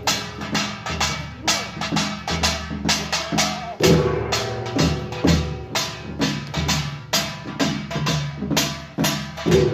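Pungmul percussion ensemble playing together: small gongs and drums struck in a fast, driving rhythm, many sharp strikes a second over a sustained low ringing.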